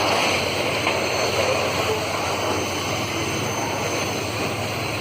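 Train rolling past: a steady rushing noise of wheels on rails, with a bright hiss in the upper range.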